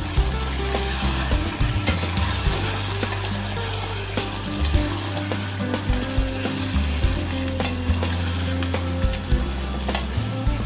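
Chicken pieces sizzling in spice paste in a stone-coated pot while a spatula stirs and scrapes them, with many short clicks of the spatula against the pot, over a steady low hum. The meat is being fried down in its masala (kosha).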